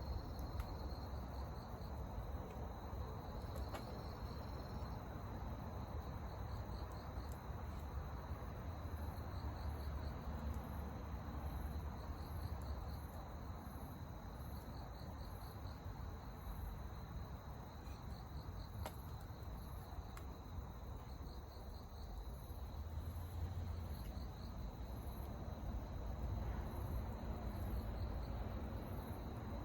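Insects chirping in short, evenly repeated pulses over a steady low rumble.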